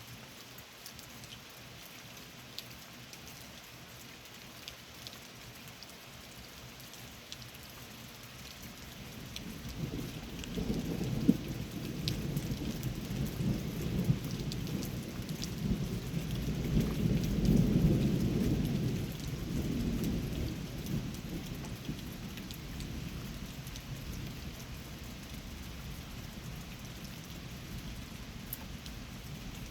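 Steady rain with scattered drops ticking close by, and a long roll of thunder that builds about a third of the way in, peaks past the middle and rumbles away over several seconds.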